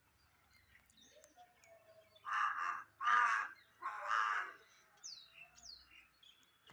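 Birds calling outdoors: three loud calls in quick succession, followed by faint, short, high chirps.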